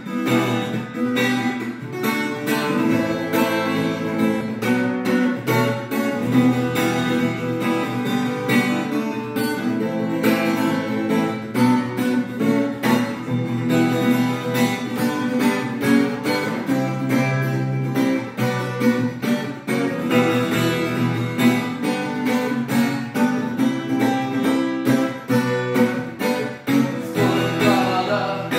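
Guitar music: an acoustic guitar playing a rhythmic instrumental part with steady, regular strokes and no singing.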